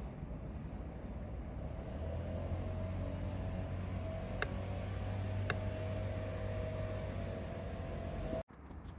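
A machine running with a steady low hum and a faint held whine, with two light clicks about a second apart in the middle. The sound cuts off abruptly near the end.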